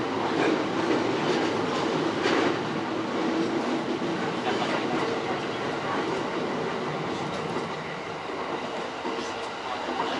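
JR East E231-series commuter train running, heard from inside the leading car: wheels rolling on the rails with a steady hum and a few rail-joint clicks.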